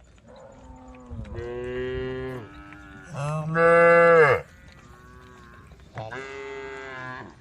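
Cows mooing: three long moos, the middle one the loudest, each dropping in pitch at its end.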